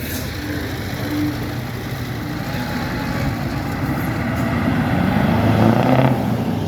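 Engines of passing road vehicles running, low and steady, growing louder toward the end.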